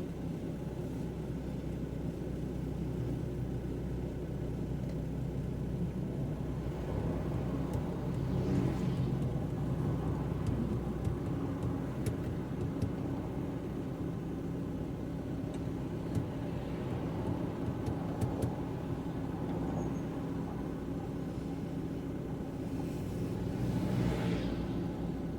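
Car driving on a wet road: a steady low engine and road rumble, with two louder swells of tyre noise, one about a third of the way in and one near the end.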